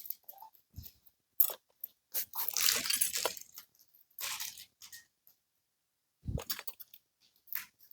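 Nail nippers cutting a thick nail: a series of sharp crunching snips and clicks, the longest crunch about two to three and a half seconds in.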